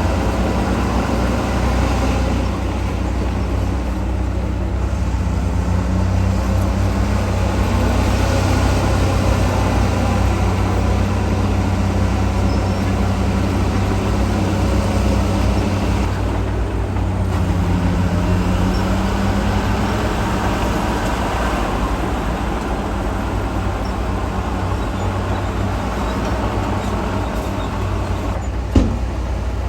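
Heavy diesel construction machinery running steadily with a deep rumble, its engine note rising and falling a few times. A single sharp knock comes near the end.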